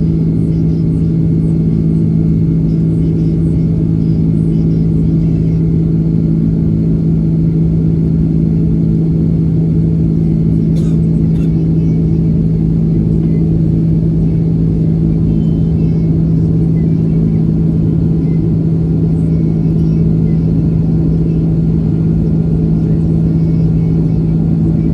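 Airbus A330-300 cabin noise in flight: a steady, loud drone with a constant low hum, unchanging throughout.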